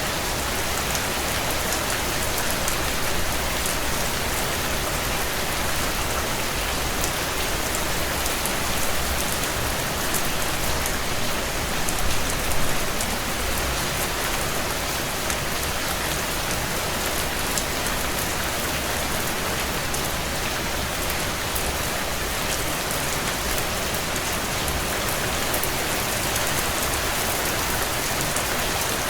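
Heavy rain pattering steadily on window glass, with the scattered small pops of a wood fire crackling in a fireplace. The sound swells briefly about twelve seconds in.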